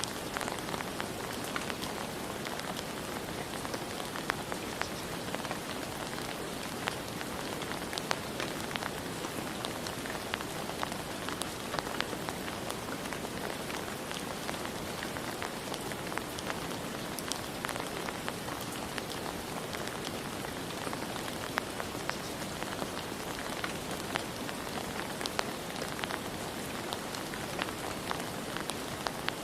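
Steady rain falling, an even hiss with many scattered drops ticking sharply on a surface.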